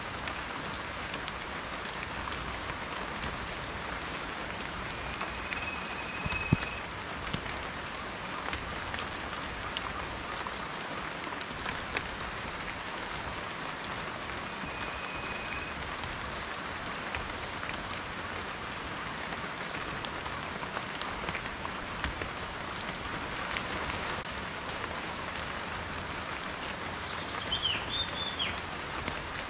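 Steady rain falling, individual drops ticking sharply on a surface, one louder drop about six and a half seconds in. A few short high chirps come near the end.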